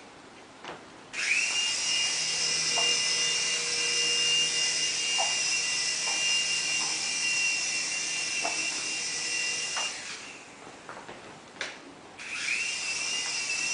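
Small electric motor of a toy remote-control helicopter whining as it spins up: it starts about a second in, runs steadily, cuts out near ten seconds and spins up again about two seconds later.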